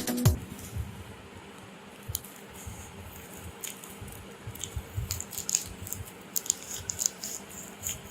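Hands handling and opening a small cardboard and plastic packaging box: scattered clicks and short rustles, growing busier in the second half.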